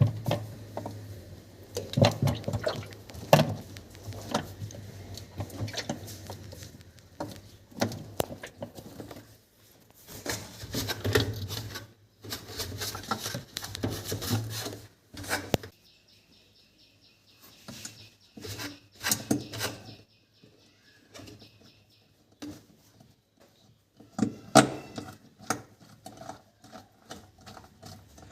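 Irregular clicks, knocks and clatter as parts of a top-load washing machine are handled and fitted, starting with the pulsator in the drum. A low steady hum runs underneath for much of it.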